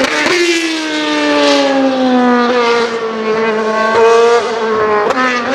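Roper lawn tractor's 22 hp Briggs & Stratton V-twin engine running in sped-up footage, so it comes across as a high, buzzing whine. Its pitch sags slowly, then climbs again near the end.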